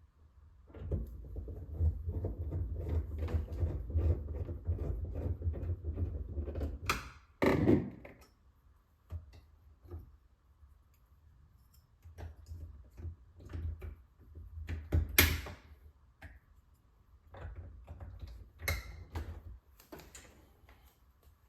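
Hands handling and fitting refrigerator parts back in place: rubbing and clattering, with a loud sharp knock about seven seconds in and another about fifteen seconds in, then scattered clicks and knocks.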